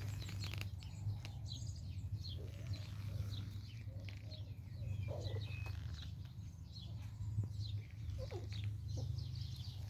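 Small birds chirping, short scattered chirps, with a few brief soft squeaks, over a steady low hum.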